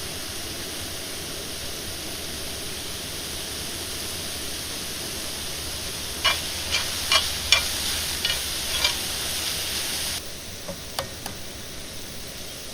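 Food sizzling in a pan over a campfire, with a utensil tapping and scraping against the pan about six times a little past halfway. The sizzle drops away suddenly near the end, leaving a softer hiss and a couple more taps.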